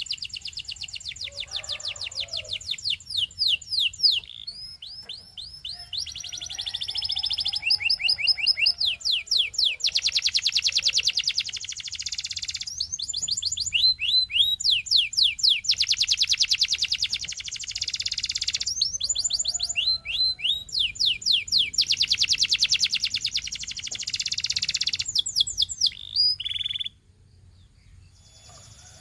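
Domestic canary singing: long phrases of rapidly repeated notes, some as fast rolling trills and some as chains of quick falling whistles, changing from one tour to the next. The song breaks off briefly near the end, then starts again.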